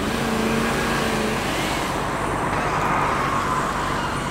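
Dubbed vehicle engine and road noise for a toy police truck driving, a dense steady rumble with a faint steady tone in the first second or so.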